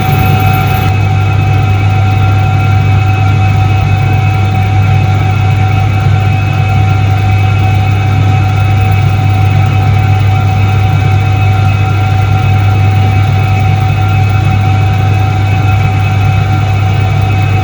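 Soviet Iset-3 washing machine from 1978 running, its electric motor giving a loud, steady hum with a few constant higher tones over it.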